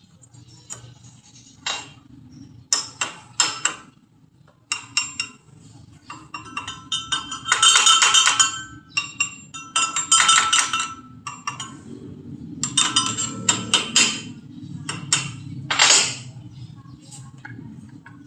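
Metal pieces clinking and clattering in an irregular run of sharp knocks and longer ringing rattles, loudest in several bursts of about a second each in the middle and near the end.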